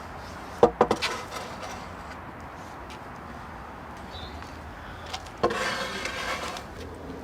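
Wooden decking boards and joists being handled: a quick cluster of sharp wooden knocks just under a second in, then a burst of rough noise lasting about a second, about five and a half seconds in.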